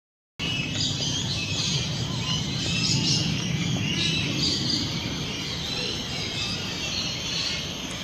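Birds chirping and calling in many short notes over a steady low rumble; the sound cuts in abruptly just under half a second in.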